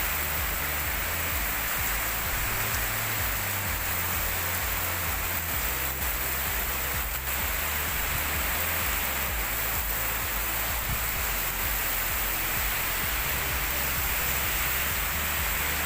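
Heavy rain driven by strong wind: a steady, unbroken rushing hiss, with a low rumble of wind on the microphone underneath.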